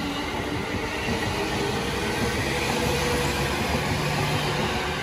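JR Musashino Line electric commuter train running past a station platform: steady wheel-and-rail noise, with a low hum that steps up in pitch about three-quarters of the way through.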